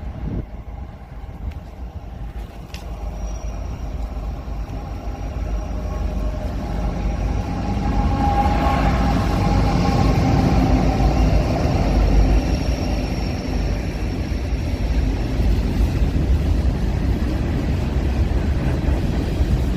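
A freight train passing on the adjacent main line, its rumble building over the first several seconds and then holding, with a faint steady squeal over it.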